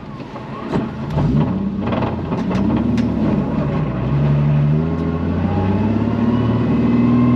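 Nissan 350Z's V6 engine accelerating while driving, its note climbing and dropping several times as the throttle is worked. A few sharp clicks or rattles come in the first couple of seconds.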